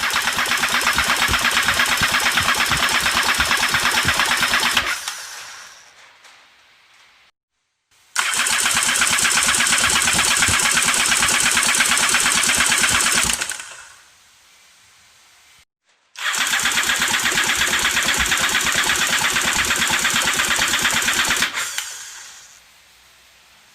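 A used Sea-Doo RXT iS 260 engine, a supercharged three-cylinder Rotax four-stroke, being cranked over by its starter three times. Each run lasts about five seconds with a fast, even pulsing, then winds down to a stop.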